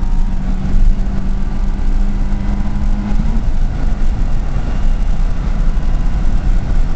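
Fiat Palio's Fire four-cylinder engine running, heard from inside the cabin with a heavy, steady road and engine rumble. A steady engine note rises slightly and fades out about three seconds in. The engine is running on an experimental fuel-injection ECU.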